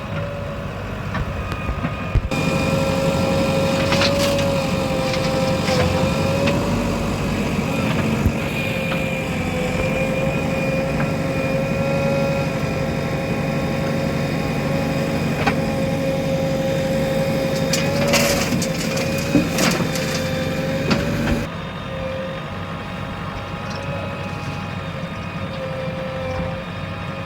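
Diesel construction machinery running steadily under work, its engine hum carrying a steady, slightly wavering whine, with a few brief clanks. The sound changes abruptly about two seconds in and again near the end, where the footage cuts between clips.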